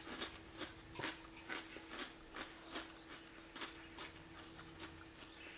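A person chewing a mouthful of crispy chocolate cereal soaked in milk: faint, regular crunches about two to three a second, thinning out near the end.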